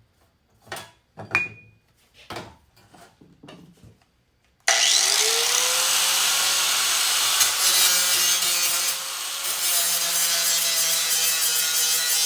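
A few light knocks and clicks, then about five seconds in a power tool starts up, its pitch rising quickly as the motor spins up, and runs steadily and loudly while working the material, with a brief drop in load near the middle.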